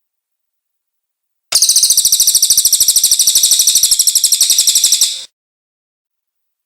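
Cililin bird singing one loud, high-pitched, rapid pulsing trill of about ten notes a second, starting about a second and a half in and stopping a little after five seconds.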